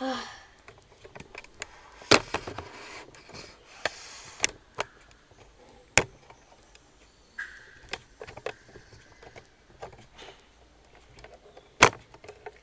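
Handling noise: a scattered series of sharp knocks and clicks, the loudest about two, six and twelve seconds in, with a brief rubbing noise about two seconds in.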